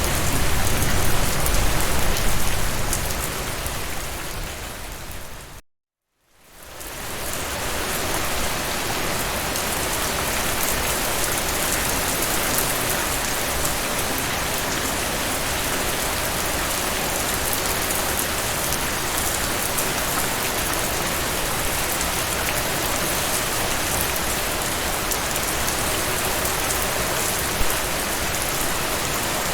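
Steady rain falling. About five seconds in it fades out to a moment of silence, then fades back in and runs on evenly.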